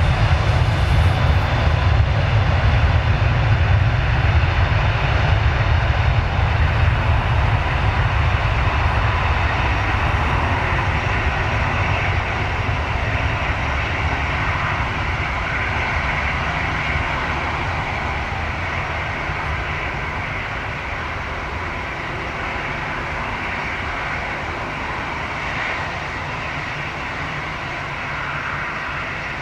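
Airliner's engines at takeoff power: a deep, steady rumble that slowly fades as the aircraft climbs away.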